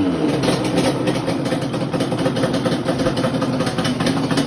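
A 1995 Yamaha Banshee's twin-cylinder two-stroke engine idles steadily at an even pitch, freshly started.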